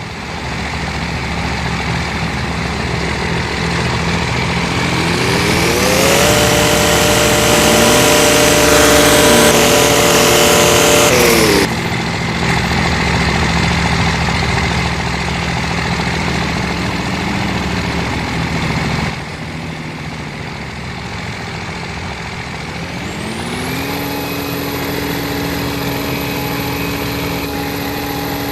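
Truck engines idling and being revved: the engine pitch climbs and is held high for several seconds before dropping off sharply, then climbs and holds again near the end.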